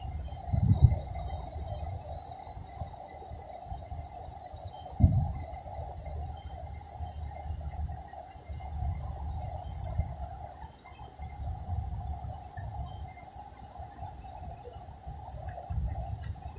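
Steady high-pitched chorus of insects trilling, with a low rumble underneath. Two dull thumps, the loudest sounds here, come about a second in and again about five seconds in.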